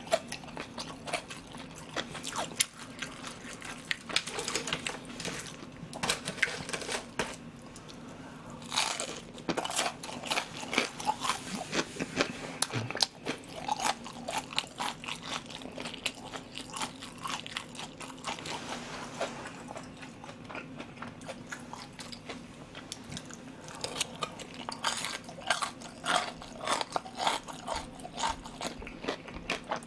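Close-miked chewing and crunching of deep-fried battered pork (tangsuyuk) in a soy-sauce glaze: a steady run of crisp crackles, busier about ten seconds in and again near the end.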